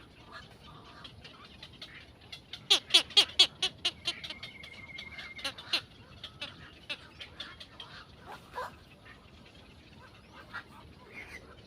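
Small birds chirping. About two and a half seconds in comes a loud run of quick, sharp calls, about five a second, with a brief steady whistle in the middle. Then a few scattered calls.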